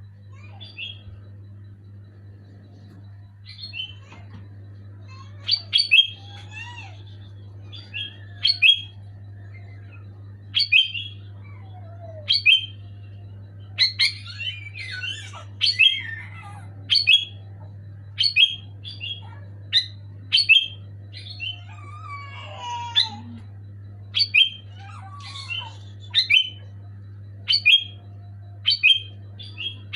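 Sooty-headed bulbul calling over and over in short, sharp, high notes, often in pairs, about one burst every second or so, with a few lower gliding calls mixed in. A steady low hum runs underneath.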